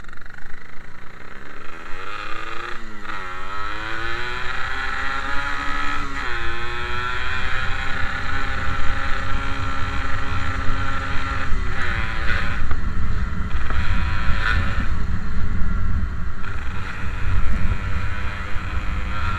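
Yamaha RX-King's 135cc two-stroke single-cylinder engine on the move, accelerating through the gears. The engine pitch climbs, drops sharply at a gear change about three seconds in and again about six seconds in, then runs steadily at speed with a low rumble underneath.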